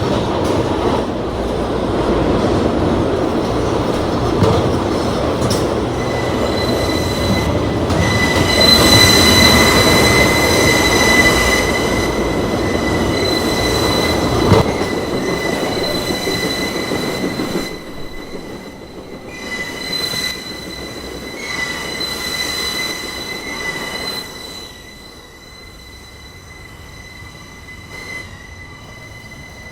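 New York City subway J train running between stations, its wheels squealing on the rails in a steady high pitch from about six seconds in. The rumble of the running gear drops away after about eighteen seconds, while the squeal carries on.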